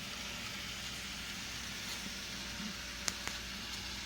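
N-scale model freight train running along the layout track with a steady hiss, and two sharp clicks about three seconds in.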